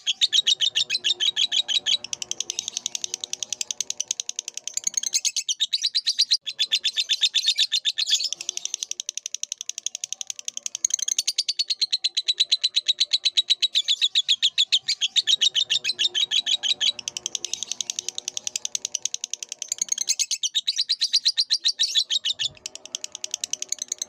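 Lovebird singing its long, rapid chattering song: a fast, continuous run of high chirps, many a second, broken by a few brief pauses.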